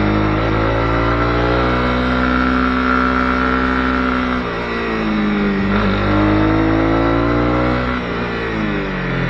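Honda CB250R's single-cylinder engine pulling under throttle, its pitch climbing steadily, dropping sharply about four and a half seconds in, climbing again and dropping once more near the end.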